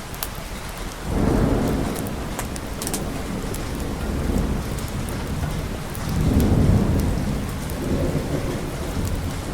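Steady rain with rolling thunder, one rumble swelling about a second in and a louder one around six seconds in.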